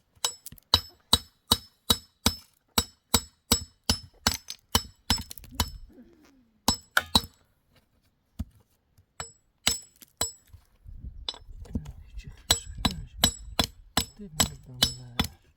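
Repeated sharp metallic clinks with a short ringing note, about two a second, in runs broken by pauses; a low murmur of voices comes in under the later strikes.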